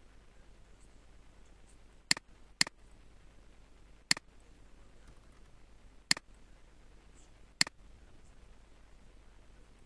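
Computer mouse clicking: five sharp single clicks, two close together about two seconds in, then three more spaced a second and a half to two seconds apart, over a faint steady hiss.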